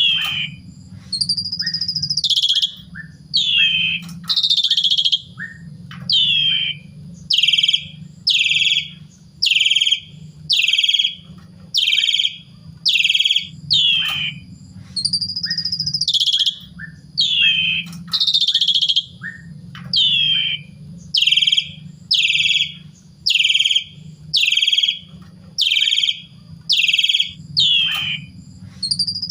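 Asian pied starling singing in loud, repeated phrases of harsh, slurred and rising notes, about one a second.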